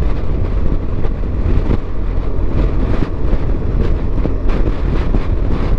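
BMW R 1200 GS flat-twin engine running steadily while riding, with wind and road noise.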